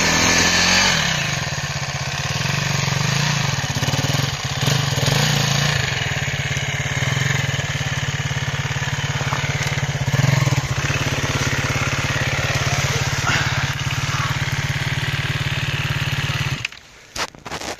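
KTM enduro motorcycle engine running under load as the bike is heaved up a steep slope, the revs rising and falling a few times, then the engine cuts out suddenly near the end.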